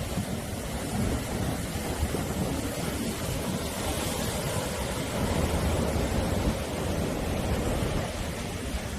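Sea surf: waves washing ashore in a continuous rush with a deep rumble, swelling louder about midway through.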